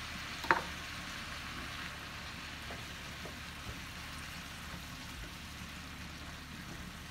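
Chopped cabbage and bacon sizzling steadily in a skillet just after chicken broth is poured in, with a wooden spoon stirring and one sharp knock about half a second in.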